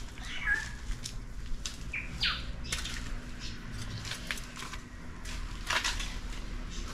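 A few short bird chirps, one a quick falling sweep, among scattered light clicks and rustles, over a low steady hum.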